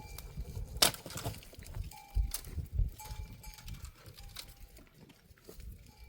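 Livestock bells on grazing animals clinking now and then, each a short, clear ring, with a sharp knock about a second in.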